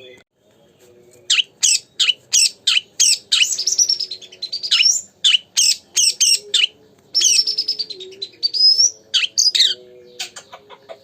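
Oriental magpie-robin (kacer) singing vigorously: a fast run of sharp chirps and whistled, sliding notes starting about a second in, with a brief break near the middle.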